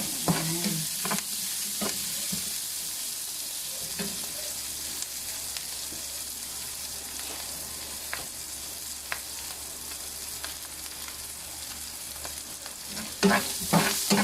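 Onion, garlic and chorizo sizzling in margarine and oil in a frying pan as they caramelize, with the occasional knock and scrape of a utensil stirring them, coming thick and fast near the end.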